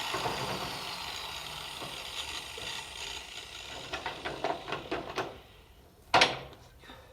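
A hand-held power tool winds down, its whine falling and fading, followed by a run of clicks and rattles and one sharp knock about six seconds in.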